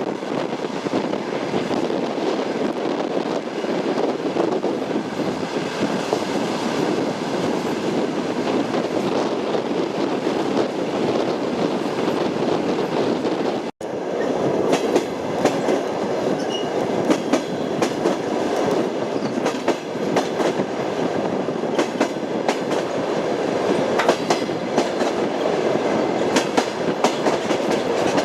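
Train wheels clattering over rail joints over the steady rumble of a moving railway carriage. The audio drops out for a moment about halfway through, after which the clicks of the wheels come through more sharply.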